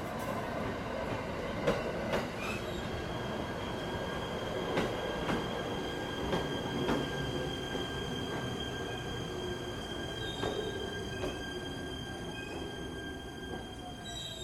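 JR East E127 series two-car electric train running slowly past along a station platform, its wheels clicking over rail joints, with a steady high squeal from about two seconds in.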